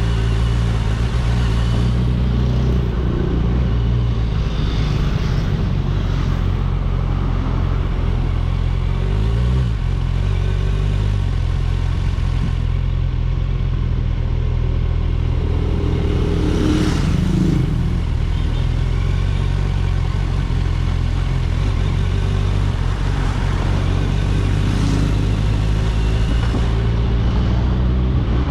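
Kawasaki Ninja 1000 SX's inline-four engine running steadily under way, its drone shifting in pitch a couple of times, around a third of the way through and again past the middle.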